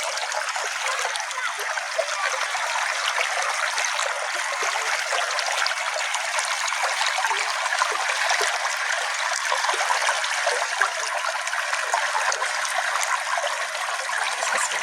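Small brook flowing: a steady, even trickling and babbling of water with no deep rumble.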